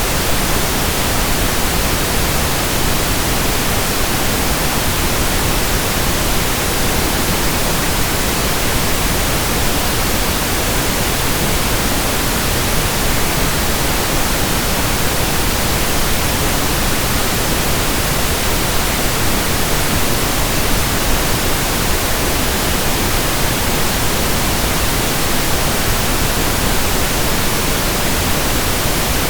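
Pink noise: a steady, unchanging hiss spread evenly from low to high pitch, with no breaks or events.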